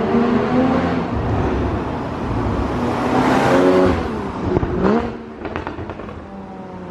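Porsche 981 Cayman S flat-six engine revving, its pitch swelling and falling back several times, loudest a little past the middle. After a last quick blip it settles lower, with a few short crackles.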